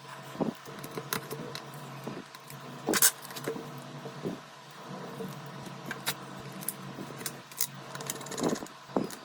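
Small sharp clicks and light metallic taps, irregular and scattered, from tools and small parts being handled while a smartphone is taken apart for repair, over a steady hum.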